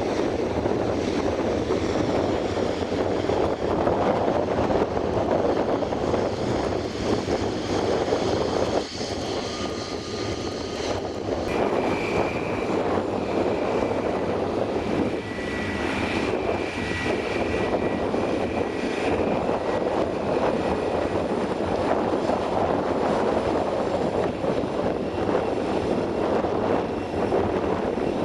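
Airliner engines running loud and steady, a dense rushing sound, with high whining tones joining in about halfway through the first half and holding for several seconds.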